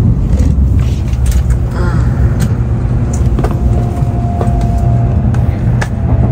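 Shinkansen bullet train heard from inside the carriage as it pulls into a station: a steady low rumble with scattered light clicks, and a faint steady tone lasting a second or two in the middle.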